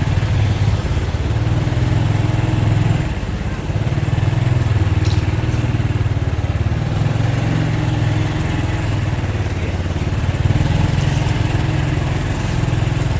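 A small engine running steadily close by, with a fast even firing pulse. It eases off briefly about three and a half seconds in, then picks up again.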